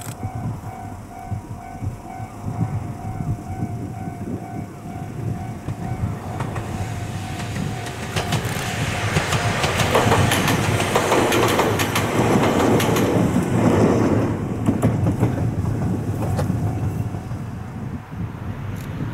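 A level-crossing bell rings in a rapid, even pulse. Then a two-car Ohmi Railway 800-series electric train passes, its wheels clicking over the rail joints, loudest about ten to fourteen seconds in. The bell sounds again briefly near the end.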